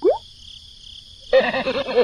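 Animal calls over a steady high buzz: a last short rising call right at the start, then, about a second and a half in, a louder wavering call lasting about a second.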